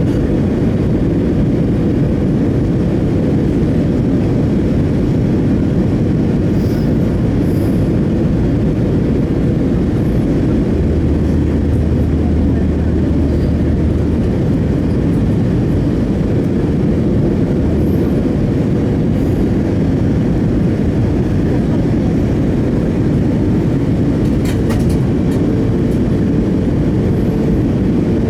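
Steady low rumble of airflow and jet engines inside an Airbus A319's cabin in flight, with a deeper hum joining for a few seconds near the middle.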